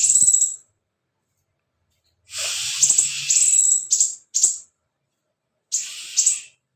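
Scarlet minivet giving harsh, hissing, rasping bursts, some with a fast rattle, in several separate bouts with silent gaps between: a frantic, agitated bird.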